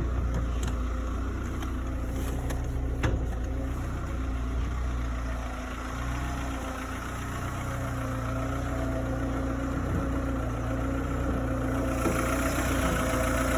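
A 2004 SEAT Ibiza's 1.4-litre engine idling steadily, with a sharp click about three seconds in. The engine sound grows brighter near the end.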